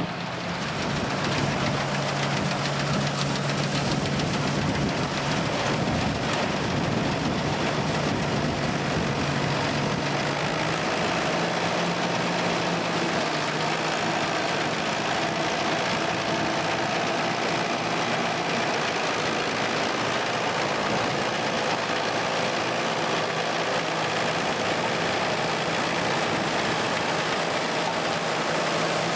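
Engine of a vintage farm machine running steadily, its pitch stepping slightly about a third of the way in.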